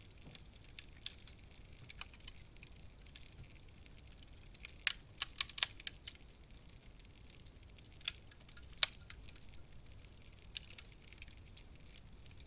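Wood fire crackling in a fireplace: scattered sharp ticks and pops over a faint hiss, with a quick flurry of loud pops about five seconds in and two more sharp pops a few seconds later.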